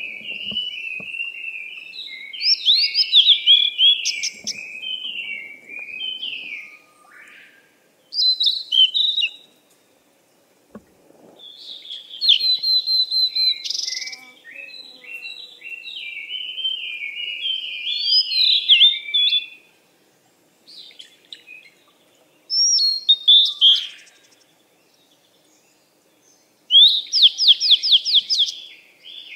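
Songbirds singing: bursts of quick chirping phrases separated by short pauses, ending in a fast run of repeated notes.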